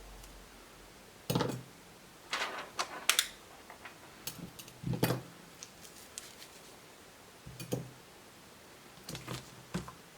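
Laptop parts being handled during disassembly: irregular clicks and knocks, with a quick cluster about two to three seconds in.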